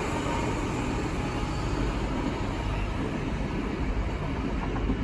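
A departing Great Western Railway IET train running out of the station, a steady low rumble without distinct tones.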